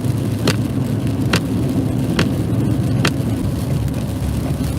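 Steady engine and road rumble heard inside a moving vehicle on an icy highway. Over it come sharp, evenly spaced clicks a little under a second apart, which stop about three seconds in.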